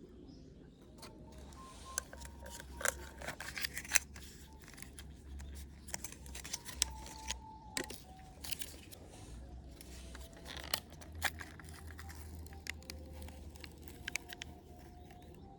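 Irregular light clicks and clinks of small hard objects being handled, over a steady low rumble.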